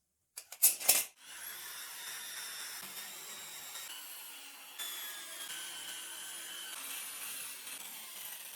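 A few sharp metal knocks, then a steady rough scraping hiss with faint high whines: an abrasive tool working the rusty steel of an old padlock.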